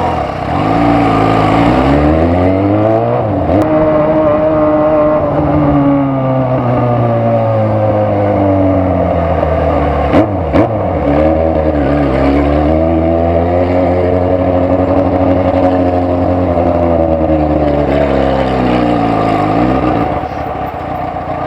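Motorcycle engine pulling away and revving up, dropping in pitch at a gear change about three seconds in, then slowing down. It picks up again, holds a steady speed and winds down near the end, with a couple of sharp clicks about halfway through.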